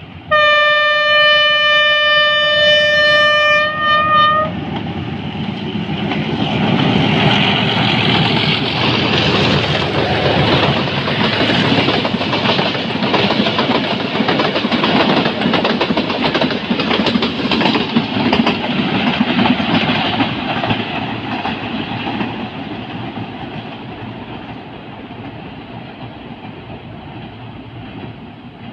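Diesel locomotive horn sounding one long blast on a single steady note for about four seconds. Then the passenger train passes: engine rumble and wheels clattering over the rails, loud through the middle and fading away near the end.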